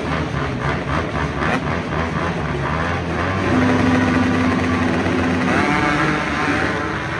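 Off-road race engines of dirt bikes and ATVs running, pulsing rhythmically at first, then a steadier drone with one engine's pitch rising and falling near the end.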